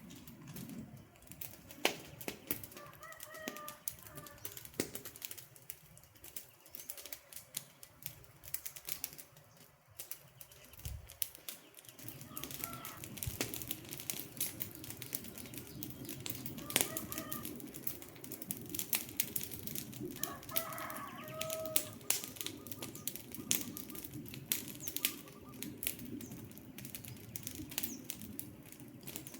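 Wood fire crackling with frequent sharp pops, under a few short bird calls. A low rushing noise beneath the crackle gets stronger about twelve seconds in.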